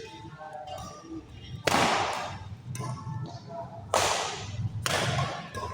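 Badminton racket strikes on the shuttlecock during a rally: three sharp hits, the last two close together, each followed by a short echo.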